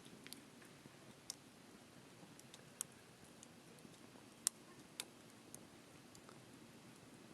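Wood fire crackling in a small fire pit: scattered, irregular sharp snaps and pops over a faint low hiss. The loudest snap comes about four and a half seconds in.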